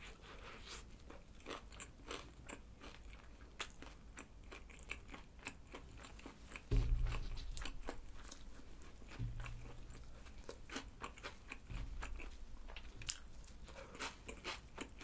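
Close crunching and chewing of a McDonald's McCrispy Creamy Onion burger: a bite into its fried, Cajun-coated chicken thigh patty, then steady chewing full of sharp crackles from the crust. The crust is hard rather than crisp, which the eater puts down to the delivered burger having cooled. A few dull low thuds come in about seven, nine and twelve seconds in.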